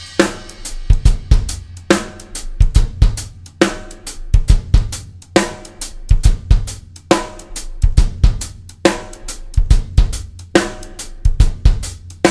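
Drum kit playing a half-time shuffle groove: shuffled hi-hat, bass drum with a quick double stroke across the bar line, and a heavy snare backbeat about once every 1.7 seconds.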